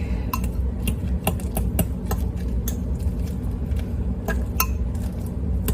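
A metal fork clinking against a bowl while mashing a banana: irregular sharp clinks, about two a second, over a steady low hum.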